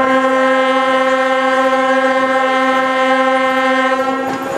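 Locomotive horn sounding one long blast at a steady pitch, cutting off just before the end.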